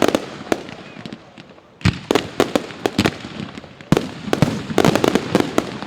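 Fireworks display going off: many sharp bangs in quick succession. They come in clusters, one at the start, another about two seconds in, and a denser run from about four seconds in until near the end.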